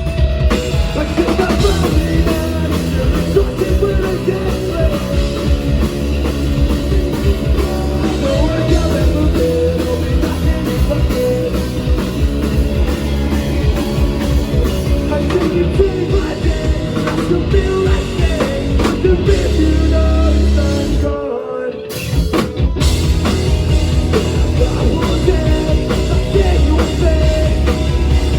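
Rock band playing live, with drum kit and guitar, stopping for a brief break about three-quarters of the way through before coming back in.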